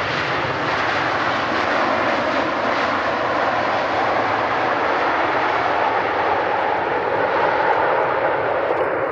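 Airliner engines, a loud, steady rush of noise that holds without a break.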